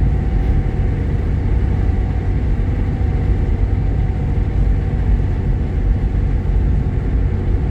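Steady low drone of engine and road noise inside the cabin of a Jeep Grand Cherokee with a 3.7-litre V6.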